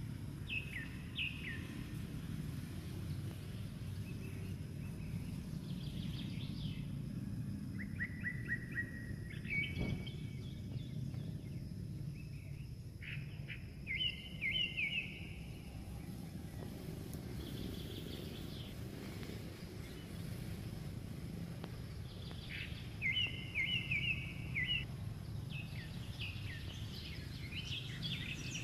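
Birds chirping in short, rapid trills every few seconds over a steady low outdoor rumble; the loudest trills come about halfway through and again a few seconds before the end.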